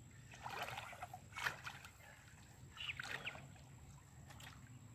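Faint sloshing and trickling of river water at the bank, with a few soft knocks.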